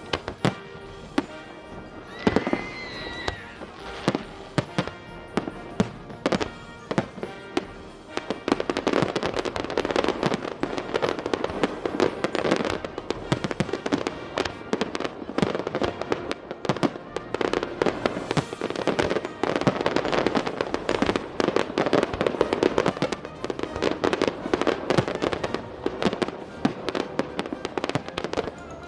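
Fireworks bursting over music: scattered bangs at first, building about a third of the way in into a dense, rapid barrage of explosions.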